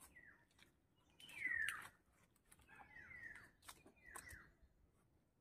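A bird calling faintly and repeatedly, each call a short note sliding downward, about five over a few seconds. Faint rustles and clicks sound between the calls.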